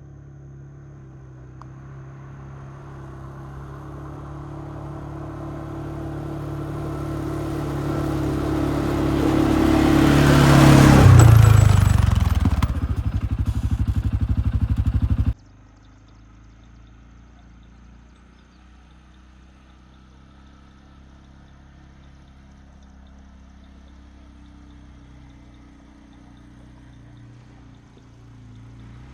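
Quad bike engine approaching and growing steadily louder, its pitch dropping as it passes close by a little over a third of the way in, followed by a fast rattling pulse that cuts off suddenly about halfway through; after that only a faint low hum remains.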